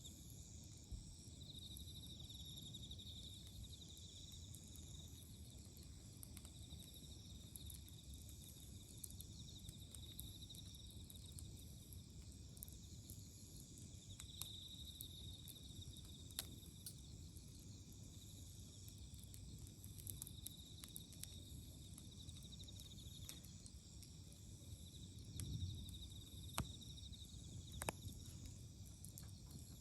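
Faint, steady chirring of autumn crickets and other insects, pulsing in high bands. Scattered sharp crackles and pops from a wood campfire come through, a little more often near the end.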